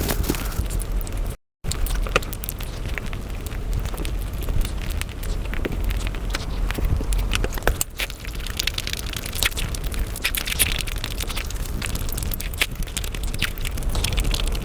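Close-miked mukbang eating sounds played at five times speed: a dense, rapid run of chewing clicks and mouth smacks. The sound cuts out for a split second about a second and a half in.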